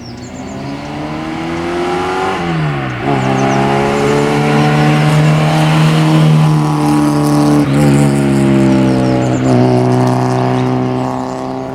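Citroën AX GTI's four-cylinder engine running flat out on a hillclimb. The revs rise, drop sharply at an upshift about three seconds in, then climb and hold high with brief dips near the end. The engine grows louder as the car approaches.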